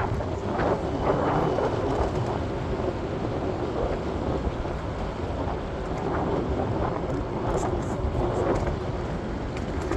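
Steady rumble of a moving vehicle, with a faint hum running through it and a few light clicks near the end.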